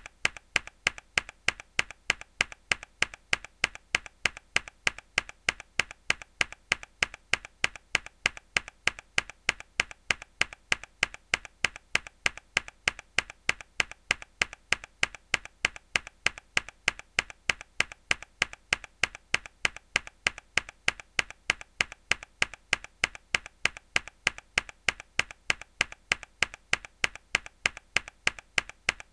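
A single mechanical keyboard key pressed hard over and over at an even pace, about two and a half strokes a second. Each stroke is a faint tick followed by a sharp, loud click.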